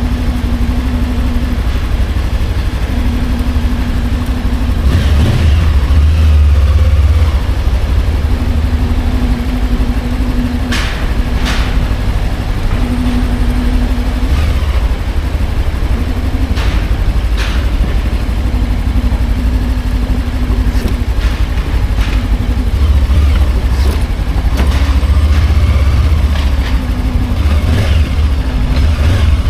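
Motorcycle engine running under way with a steady rush of noise over it, growing louder twice as it pulls, a few seconds in and again past the middle. A few short sharp clicks near the middle.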